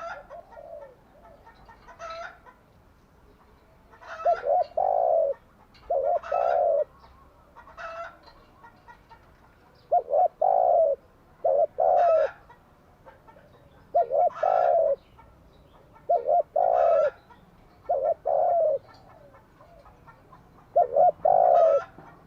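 Spotted dove cooing its song: short phrases of two or three low, rounded coos, each phrase about a second long, repeated every two seconds or so.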